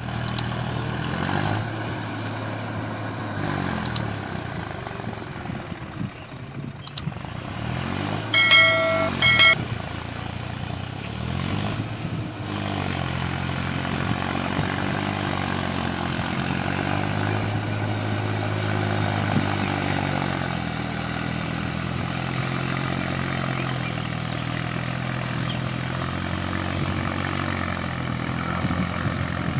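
Engine of a farm vehicle running, its pitch rising and falling as it speeds up and slows down. A horn sounds twice about eight to nine seconds in.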